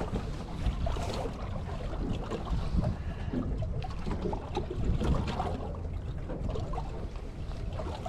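Outdoor rumble of wind on the microphone aboard a small fishing boat, with scattered small knocks and water splashes against the hull.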